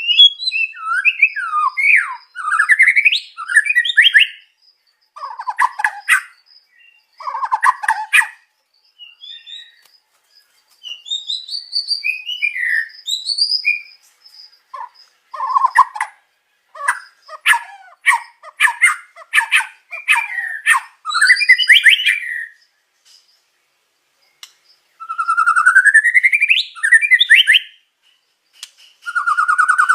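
White-rumped shama song: loud, varied phrases of rising and falling whistles mixed with rapid rattling clicks, broken by short pauses, with long rising whistled sweeps near the end.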